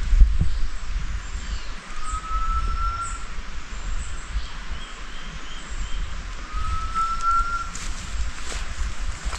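Outdoor ambience with a steady low rumble. A faint rising whistled call sounds twice, about four seconds apart, with scattered faint high chirps.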